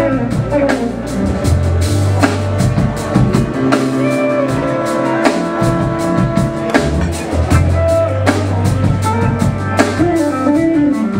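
Live blues-rock band playing: electric guitar lines over bass and a drum kit with steady drum strokes.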